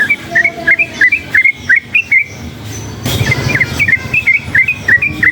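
Sooty-headed bulbul (trucukan) singing: quick runs of short whistled notes, two phrases with a pause of about a second between them.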